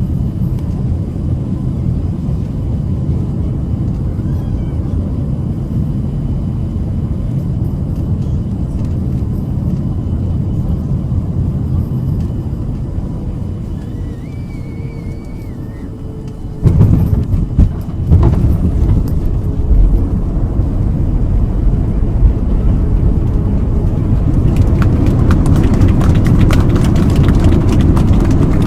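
Cabin noise of a Boeing 737-700 on final approach: a steady low rumble of its CFM56 engines and airflow that eases slightly, then a sudden thump of touchdown about 17 seconds in with a second jolt a second later. A louder rumble follows as the jet rolls out and slows, with rattling of the cabin growing near the end.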